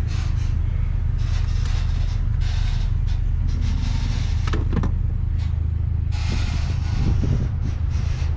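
A vehicle engine running steadily, with irregular scraping and rustling and a few short knocks over it.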